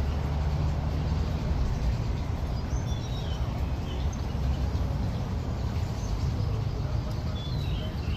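Steady low rumble of background noise, with faint bird chirps a few times.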